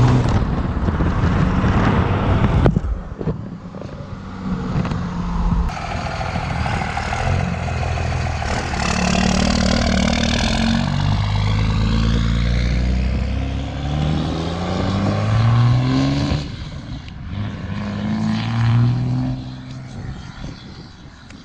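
Second-gen Dodge Ram's 24-valve Cummins 5.9-litre inline-six diesel running through a 4-inch straight pipe, loud. The revs climb several times, with a break after each climb, and the sound fades near the end.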